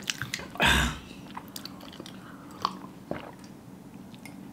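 Close-miked eating sounds: soft chewing and small wet mouth clicks of hard-boiled eggs in a spicy masala, with one louder short burst of noise just under a second in.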